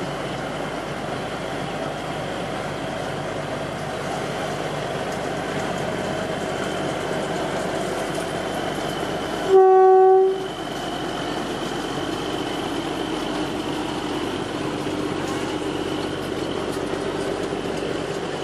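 Narrow-gauge train running with a steady rumble and a faint whine. Its horn sounds once, loud and single-pitched, for about a second near the middle.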